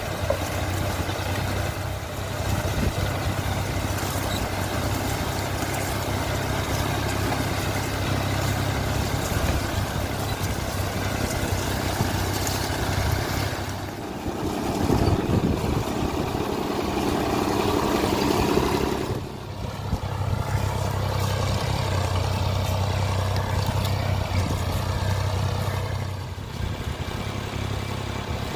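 Sonalika GardenTrac DI-20 mini tractor's diesel engine running steadily. For about five seconds in the middle it runs louder and higher, then drops back abruptly to the steady run.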